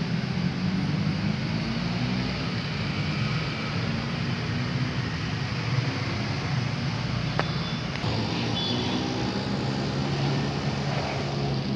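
A steady engine or machine drone with a low hum, and a couple of faint clicks about seven to eight seconds in.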